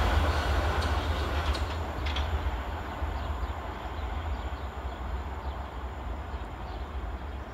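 Southern Class 377 Electrostar electric train running past and fading as it draws away: a low rumble with a few faint clicks in the first couple of seconds.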